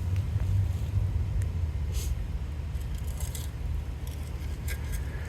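Fire truck's engine idling with a steady low rumble, with a few faint light clicks about two seconds in and again toward the end.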